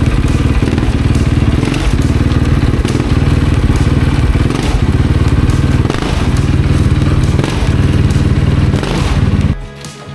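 2015 KTM 450 XC-F snowbike's single-cylinder four-stroke engine running loud and steady. It cuts off suddenly near the end.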